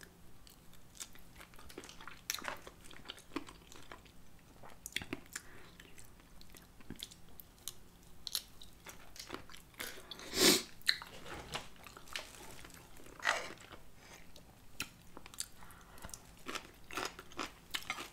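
Close-miked chewing of a cocktail shrimp dipped in cocktail sauce: soft, scattered wet mouth clicks and smacks, with one louder burst about ten seconds in.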